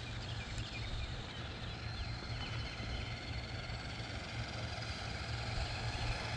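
Faint high whine of a small electric RC monster truck's motor, wavering in pitch as the throttle changes, over a steady low hum and outdoor background noise.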